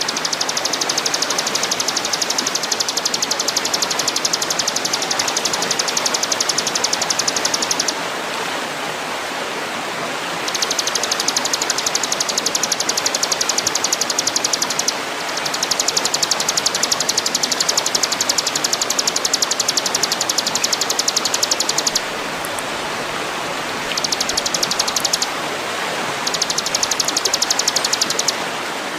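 Songbird-training (masteran) recording: a high, very rapid pulsing trill in long bouts of several seconds, with short breaks, over a steady rush of running water.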